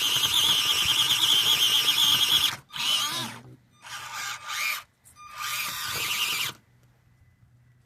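Axial SCX24 micro RC crawler's small electric motor and gears whining under throttle in four bursts: one long pull of about two and a half seconds, then three short blips, while the truck climbs.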